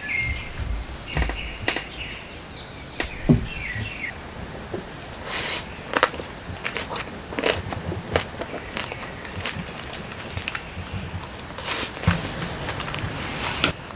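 Close eating sounds: a person biting and chewing food, with scattered sharp clicks. Birds chirp faintly in the first few seconds.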